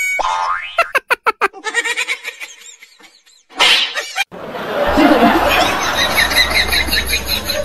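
People laughing: a quick run of rhythmic 'ha-ha' pulses about a second in, then a short loud burst near four seconds, followed by a steady noisy bed with a low hum.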